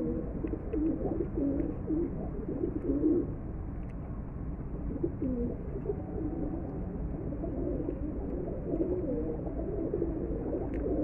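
Domestic pigeons cooing, several birds at once, a continual overlap of low, wavering coos.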